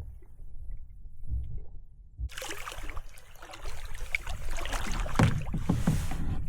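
Canoe paddle strokes and water splashing and dripping against the hull, starting about two seconds in and growing stronger toward the end, over a low rumble.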